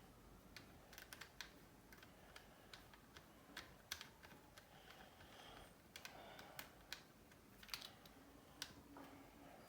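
Faint, irregular light clicks and taps of small precision tools and tiny screws being handled during a phone teardown, scattered sharp ticks over a quiet room.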